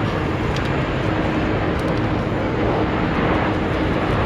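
Steady, loud rumble of jet airliner engines, an even noise with a faint steady hum under it.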